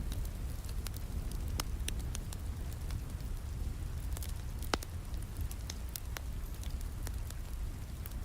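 Steady rain with a wood fire crackling over it: scattered sharp pops and ticks, a louder pop about a second and a half in and another just before five seconds.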